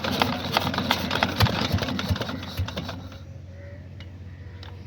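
Old black diesel engine running with a rapid mechanical clatter of ticks and knocks over a low steady hum; the clatter cuts off abruptly about three seconds in, leaving the hum.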